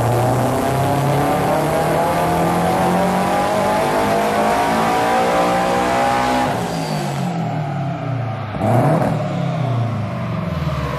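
Supercharged Scion FR-S (Toyota GT86) flat-four engine on a dyno making a wide-open pull, its pitch climbing steadily for about six seconds through a loud cat-less exhaust, then dropping away as the throttle closes. About eight and a half seconds in the revs dip and briefly rise again before settling lower.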